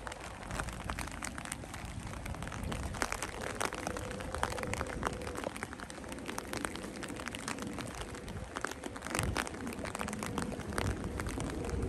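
Rain falling, many irregular drops ticking close by over a low rumble.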